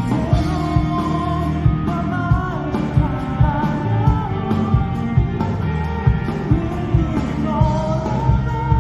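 Live rock band performance: a singer's voice over guitars and a steady drum beat.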